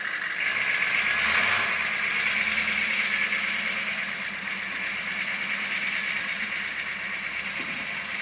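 Engine of a big Jeep-bodied monster truck running as it is driven, with a steady hiss. A high whine rises about a second and a half in, then holds steady.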